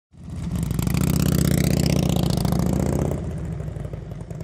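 Motorcycle engine running loud with a fast, even exhaust pulse, dropping off about three seconds in and then fading.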